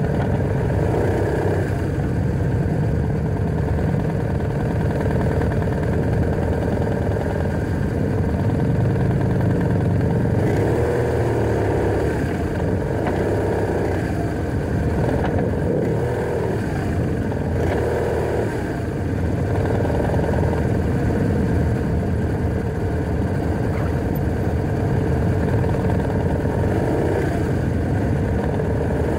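Motorcycle engine running under way on a BMW R1100RT, with steady wind and road noise. The engine note rises and falls several times between about ten and eighteen seconds in.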